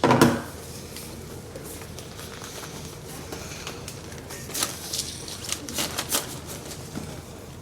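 Rustling and crinkling of a takeaway order's packaging being handled, with a cluster of sharp crackles and clicks about four to six seconds in, over low steady background noise.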